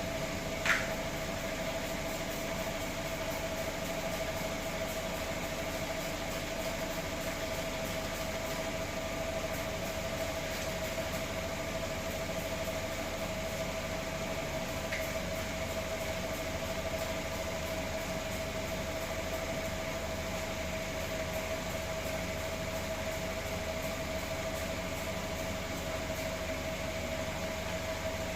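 A steady machine hum with one constant mid-pitched tone, like a motor or fan running, and a single sharp click under a second in.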